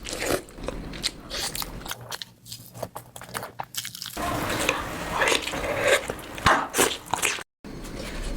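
Close-miked eating: a person biting and chewing food, with irregular crunches and wet mouth clicks. The sound breaks off briefly near the end.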